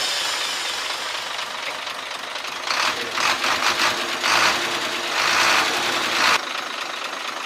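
Nissan FE6 six-cylinder diesel truck engine running just after start-up, with a fast, hard knocking rattle: the tick-tick and chuk-chuk engine noise being diagnosed. It surges louder several times in the middle, then drops back.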